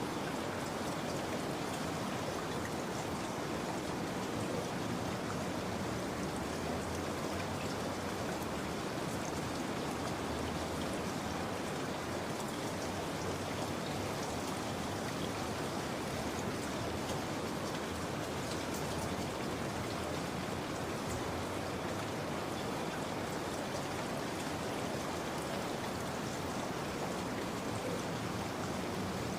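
Steady rain falling: an even hiss with scattered drop patter.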